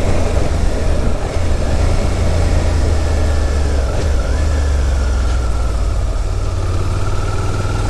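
Suzuki SV650X's liquid-cooled V-twin running steadily while the bike is ridden along, a low rumble with a faint higher whine that rises about four seconds in and then eases off.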